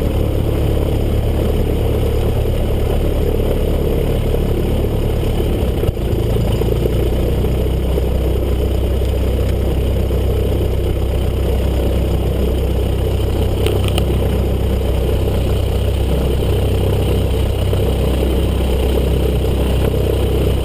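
Single-engine Cessna's piston engine and propeller running steadily, with a brief dip and a small change in the engine note about six seconds in.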